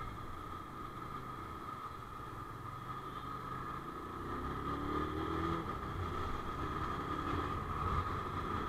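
Benelli TNT25's single-cylinder engine idling, then pulling away and accelerating from about four seconds in, the engine note rising and growing louder.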